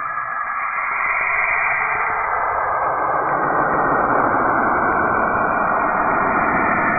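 Steady, static-like rushing noise of a "planet sound" recording, the kind made from spacecraft radio or plasma-wave data turned into sound. It fills out lower down and grows a little louder about three seconds in.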